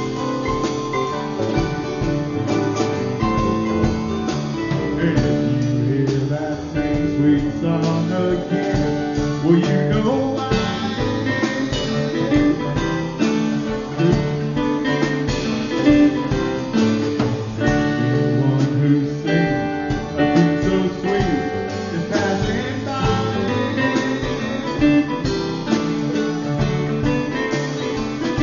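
Live band playing an instrumental passage of a folk-style song, with plucked acoustic guitar to the fore.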